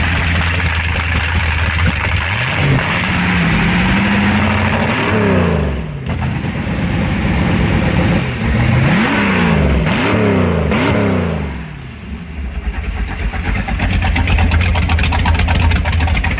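A freshly installed inboard boat engine running after a jump-start, just after a valve adjustment. It revs up once about three seconds in, is blipped three times in quick succession near the middle, then settles back to a rough idle.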